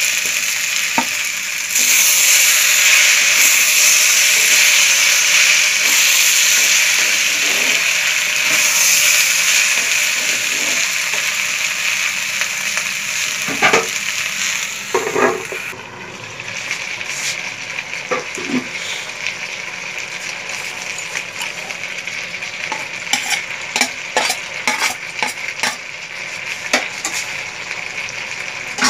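Vegetables sizzling in hot oil in a wok, stirred with a spatula. The sizzle is loud and steady at first, then about sixteen seconds in it drops to a quieter sizzle with frequent short clicks and scrapes of the spatula against the pan.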